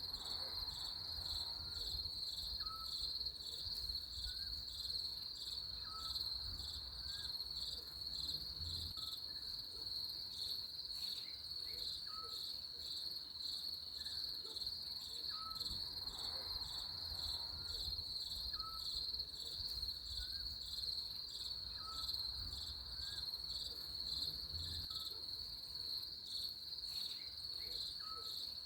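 Crickets chirping in a steady, fast-pulsing high trill, with a faint short chirp repeating about once a second beneath it.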